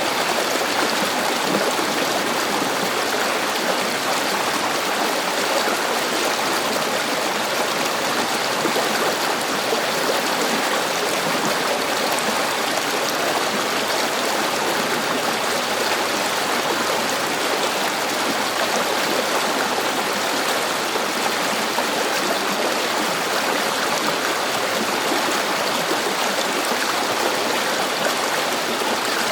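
River water flowing over rocks: a steady rushing and gurgling of running water, unchanging throughout.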